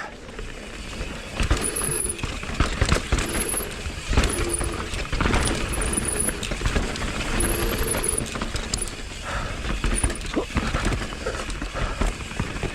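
Mountain bike running fast down a rough downhill trail: tyres on dirt and rock, the bike rattling and knocking over bumps, with brief high-pitched squeals a few times.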